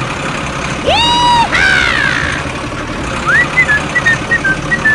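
Steady running of a small toy construction vehicle's motor. Over it come high pitched sound effects: a rising tone held for about half a second near one second in, a falling swoop just after, then from about three seconds in a rising chirp followed by a string of short beeps stepping down in pitch.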